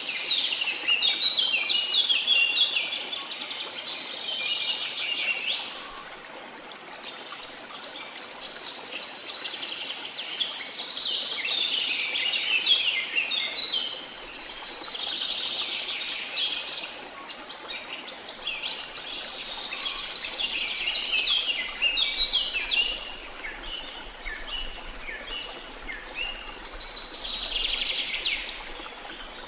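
Songbirds singing in several bouts of rapid chirping phrases, over a faint steady rush of waterfall water.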